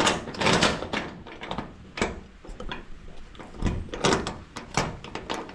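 A locked door and its padlocks rattling as they are handled: a string of irregular clanks and knocks.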